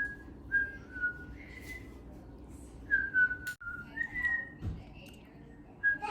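A whistled tune: a string of single clear notes, some held and some gliding briefly up or down, with short gaps between them. A sharp click sounds about three and a half seconds in.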